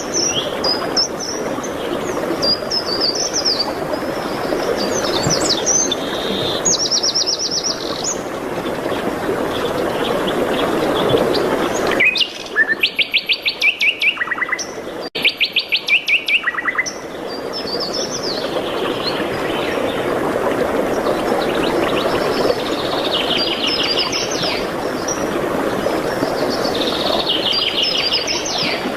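Songbirds singing in short chirping phrases, with two fast runs of evenly repeated notes about halfway through. A steady rushing noise lies underneath and drops away during those runs.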